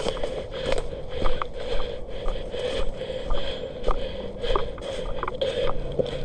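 Rhythmic scraping and rustling, about two a second, like footsteps with gear shifting as a player moves.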